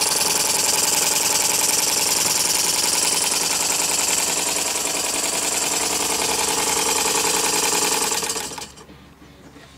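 Homemade model steam engine, built from Reeves 'Trojan' castings with a slide valve, running fast on compressed air: a rapid, steady chuffing of exhaust with a strong airy hiss. It dies away about eight and a half seconds in.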